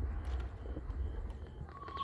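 Lull between aerial firework bursts: low rumble with faint crackling, then a single whistle tone from a whistling firework that starts near the end and holds steady.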